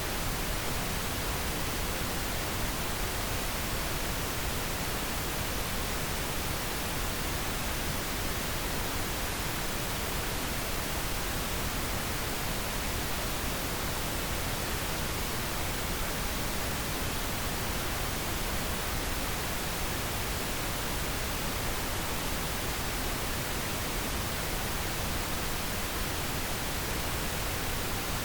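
Steady pink noise: an even, unchanging hiss spread across the whole range of pitches.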